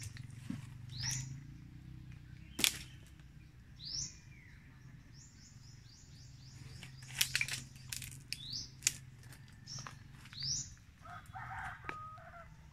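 Birds calling: short, high chirps that rise and fall, repeating every few seconds, with a quick run of notes midway. A few sharp clicks or knocks come between them, over a steady low hum.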